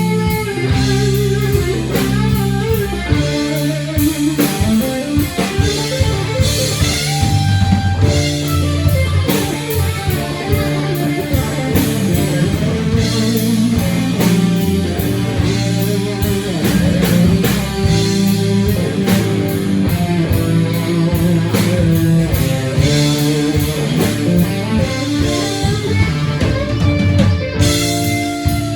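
Rock band playing live without singing: guitars over a drum kit keeping a steady beat.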